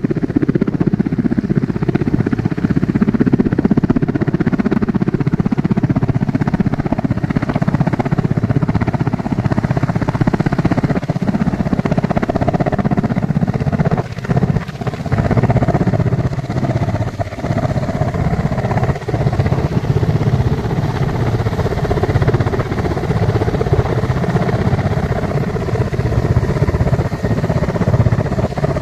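Army helicopter running, its rotor and engine making a steady, rapid chopping beat, with a couple of brief dips midway.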